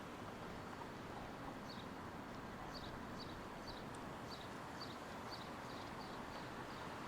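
Steady hum of city street traffic, with a small bird chirping over it about twice a second from about two seconds in.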